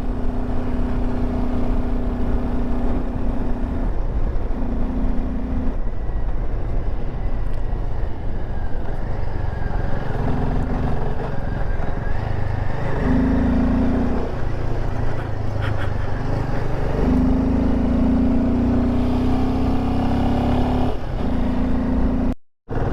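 Royal Enfield Himalayan 450 single-cylinder engine running while the motorcycle is ridden, its note holding steady for stretches and shifting as the throttle changes, over a low wind rumble on the microphone. The sound drops out for a moment just before the end.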